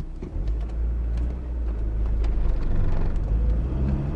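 Car on the move: a steady low engine and road rumble that grows louder over the first couple of seconds.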